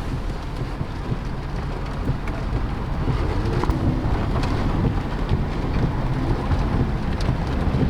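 Steady rain falling, over the low rumble of a car engine running.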